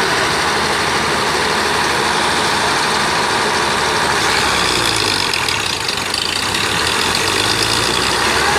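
Massey Ferguson tractor's diesel engine running steadily, its note shifting a little about halfway through.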